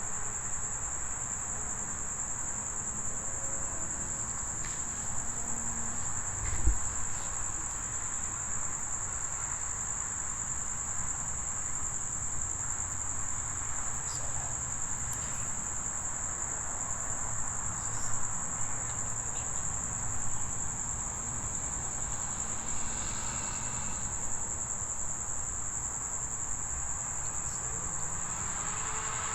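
Steady, high-pitched chorus of crickets over a low background rumble, with a soft thump about seven seconds in.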